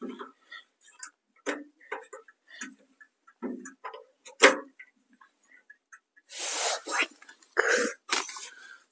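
Scattered clicks and knocks of metal legs being fitted and clamped with wing nuts onto a small tent stove, with a couple of longer scraping noises about six to eight seconds in.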